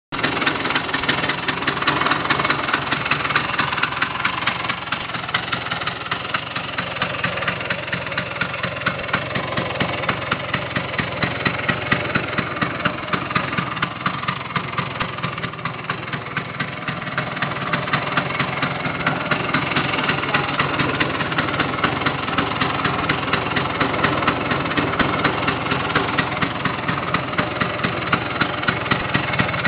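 Vespa PX 200 scooter's single-cylinder two-stroke engine idling steadily with a fast, even putter.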